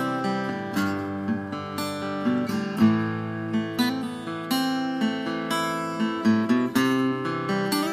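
Acoustic guitar strummed and picked in an instrumental passage of a song, with steady chord changes and no singing.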